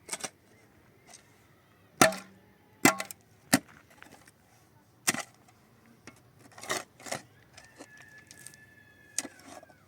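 A series of irregular sharp knocks and clacks, the loudest about two and three seconds in, then more spaced out, with a faint thin whistling tone near the end.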